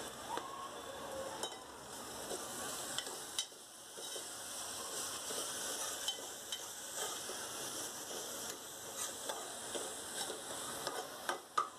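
Chopped dill leaves being stirred with a spatula into onion and tomato frying in oil in a pot, with a steady sizzle and a few light taps and scrapes of the spatula against the pot.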